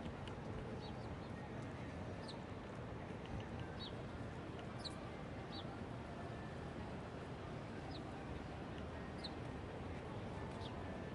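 Faint steady city background noise with birds giving scattered short, high chirps over it.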